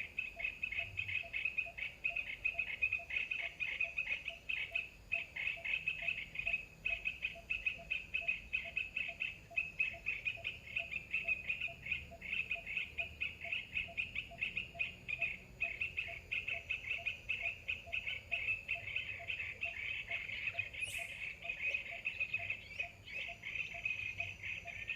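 Forest animal chorus: a continuous fast, high-pitched chattering with a fainter lower note repeating about three times a second, and a brief high sweep about twenty seconds in.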